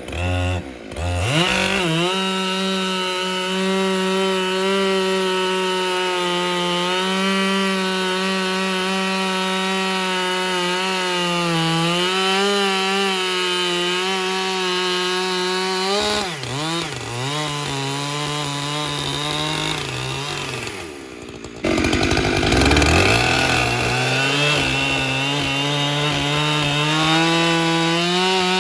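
Husqvarna 592XP two-stroke chainsaw on an Alaskan chainsaw mill, ripping a log lengthwise into lumber. It runs steadily at high speed, then its pitch sags and wavers under load about halfway through. The sound breaks off briefly near the three-quarter mark and the saw climbs back up to full speed.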